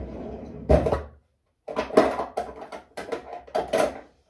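Close handling noise, probably from the fabric belt being handled: a rustle with one sharp knock about a second in. After a short gap comes a run of quick, irregular rustles and taps.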